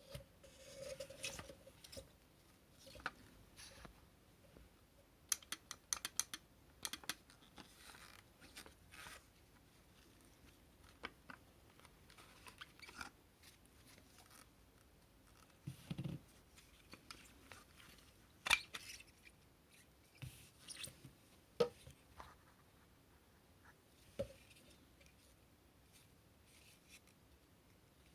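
Scattered handling noises: irregular clicks, taps and rustles, with a low thud about halfway through and a few sharp clicks after it. The vacuum motor is not running.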